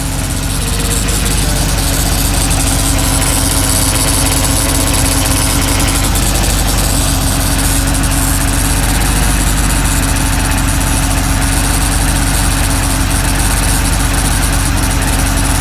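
Porsche 964's air-cooled flat-six engine idling steadily, sounding a little rough.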